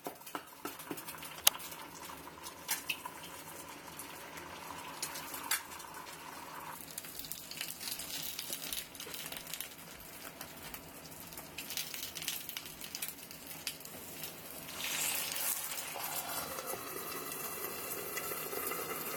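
Eggs and sausages frying in a pan: a steady sizzle with scattered sharp pops and crackles, growing louder about fifteen seconds in.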